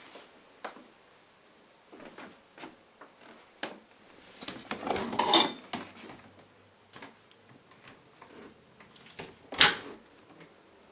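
Plastic clicks and knocks from parts of a bagless canister vacuum being handled, with a longer clatter about five seconds in and one sharp click near the end.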